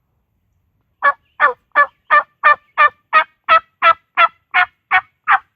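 A long, evenly paced series of wild turkey hen yelps, about a dozen short notes at roughly three a second, beginning about a second in.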